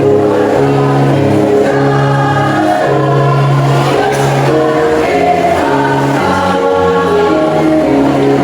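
A choir singing in harmony, on held notes that change every half second or so.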